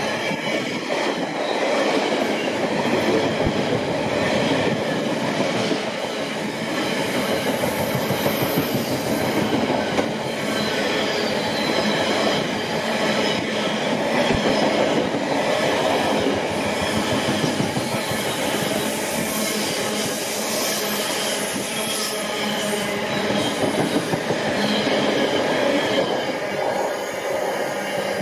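Train passing at close range on the main line, wheels rumbling and clattering over the rails with thin high squealing tones, eased off at the very end.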